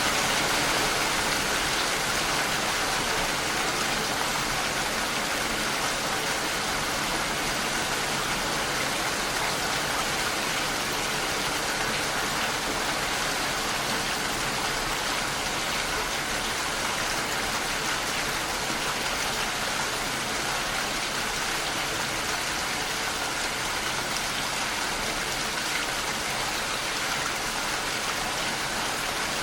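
Steady, even rainfall with no breaks or individual loud drops.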